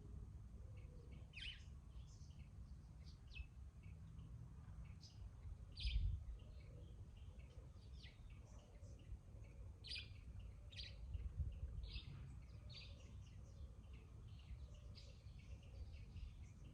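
Garden birds chattering faintly: many short, high chirps and calls, overlapping throughout. A low rumble sits underneath, with a brief low thump about six seconds in.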